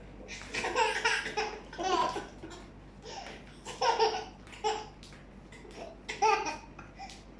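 A toddler laughing in repeated short bursts.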